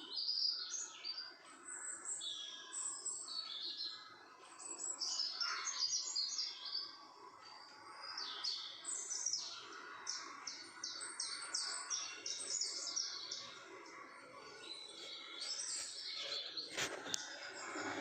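Many small birds chirping and twittering, with quick high calls overlapping one another, and a single sharp click near the end.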